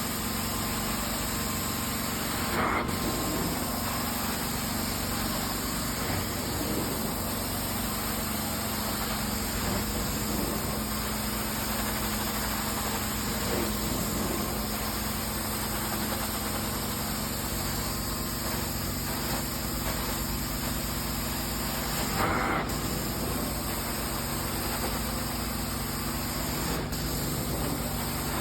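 Carpet-cleaning extraction machine running steadily: an even drone with a constant low hum. Two brief louder sounds break in, about three seconds in and again near the end.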